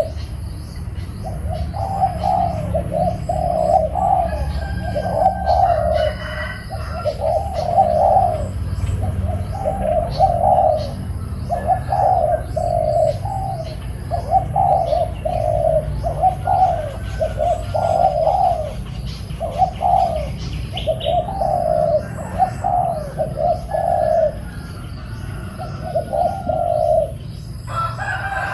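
Spotted dove cooing over and over in repeated phrases with short pauses between them, with faint high chirps of small birds in the background.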